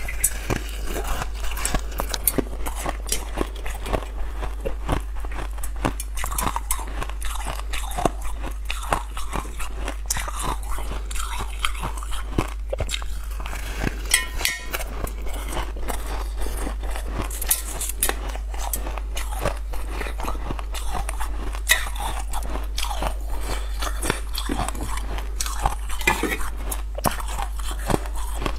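Close-up crunching: a person biting and chewing a chunk of crunchy purple crystalline food, with many sharp, irregular crunches. A steady low hum runs underneath.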